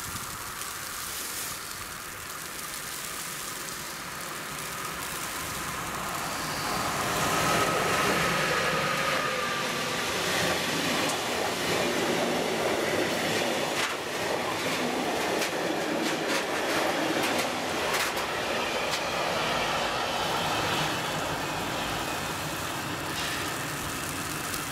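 Freight train passing close by: a locomotive draws near and goes by with a faint, slightly falling whine, then a string of tank wagons rolls past with a steady rumble and a run of sharp wheel clacks over the rail joints.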